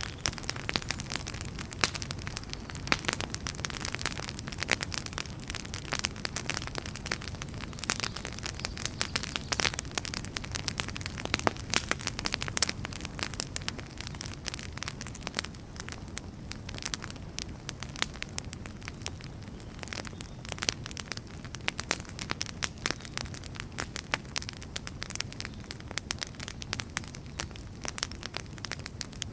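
Wood fire crackling, with frequent irregular sharp pops and snaps over a steady low rush of burning.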